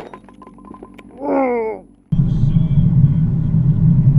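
A car driving, heard as a loud, steady, low rumble of engine and road noise that starts abruptly about two seconds in. Before it, a short sound with a clear pitch slides up and down and stops.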